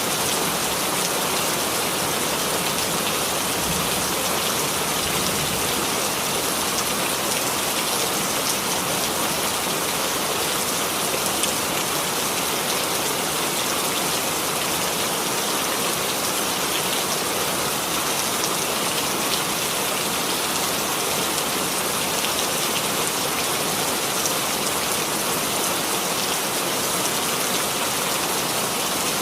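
Steady rain falling on a surface, a dense even hiss of countless drops with no breaks or changes.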